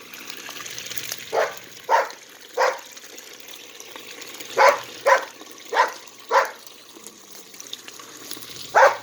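A dog barking repeatedly in short sharp barks: three, then four, then one more near the end. A lawn sprinkler hisses steadily underneath.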